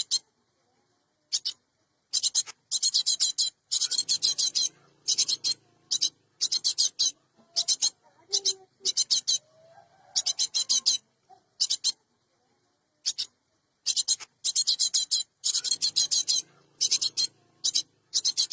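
Cinereous tit (gelatik batu) giving harsh, rasping chatter calls. The calls come in rapid bursts of quick notes, each burst lasting about half a second to a second, with short pauses between.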